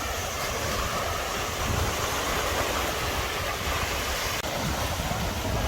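Steady rushing noise of wind and sea surf, with wind buffeting the microphone in an uneven low rumble.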